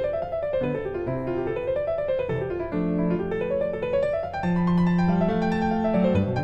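Background piano music: quick rising and falling runs over held bass notes.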